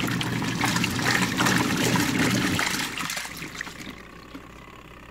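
Twin tub washing machine running, with water trickling and churning over a low motor hum; the sound dies away about three seconds in.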